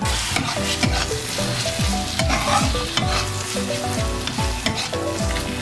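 Chopped tomato and green chilli sizzling in hot mustard oil with fried onion and ginger-garlic paste, stirred in the pan as the masala is cooked down (kashano).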